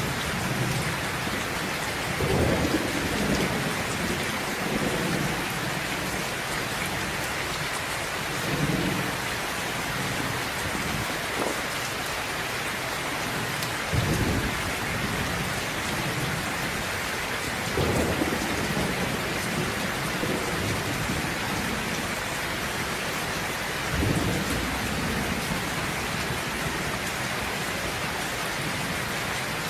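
Steady rain with rumbles of thunder rolling in every few seconds; the sharpest clap comes about halfway through.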